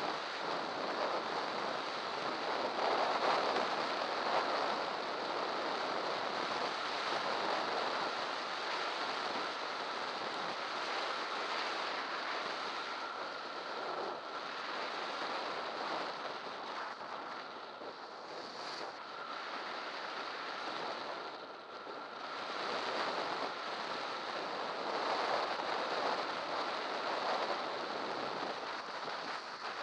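Wind rushing over the microphone of a camera riding on a bicycle on a fast downhill, a steady roar that eases a little midway, with a faint steady whine underneath.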